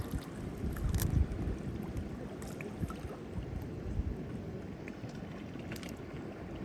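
Steady wash of the sea on the rocks, with wind gusting on the microphone in low rumbles.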